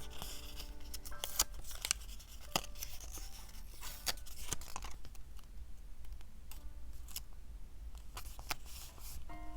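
Diary-decorating paper crafting: irregular crisp snips, clicks and rustles of paper and sticker sheets being cut, peeled and handled, with soft background music.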